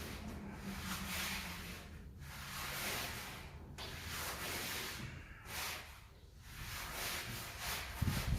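Repeated rasping strokes of a tool scraping across a bed of sand-cement mortar, about one stroke a second, as the floor screed is spread and levelled to its drainage slope.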